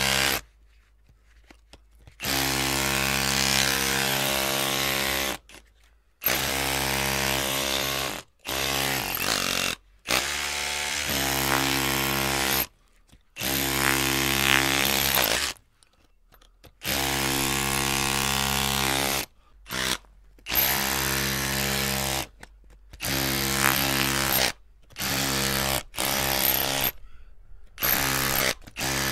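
Electric drill motor running in short bursts, switched on and off about a dozen times. Each run lasts one to three seconds at a steady pitch, with brief pauses between.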